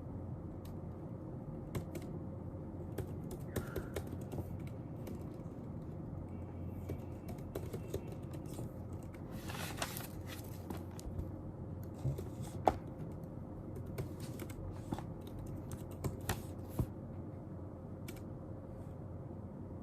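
Intermittent typing on a computer keyboard: scattered, irregular key clicks with a brief rustle about halfway through, over a steady low hum.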